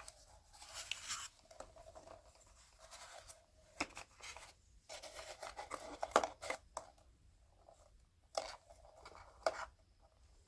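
Cardboard being handled and worked by hand: irregular scraping, crinkling and sharp clicks, with a louder cluster of clicks about six seconds in.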